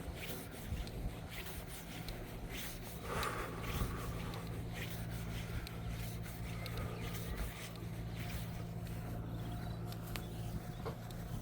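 Footsteps and brushing through rough grass and scrub, with scattered scrapes and ticks and a louder rustle about three seconds in, over a steady low hum.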